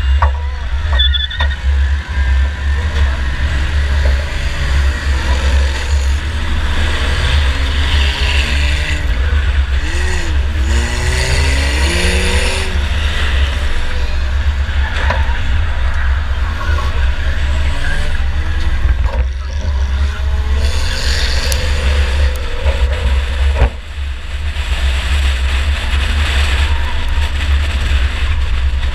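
A 2004 Chevy Impala enduro race car heard from inside the car, its engine running hard and revving up and down over a heavy constant rumble. There is a sharp bang about three-quarters of the way through.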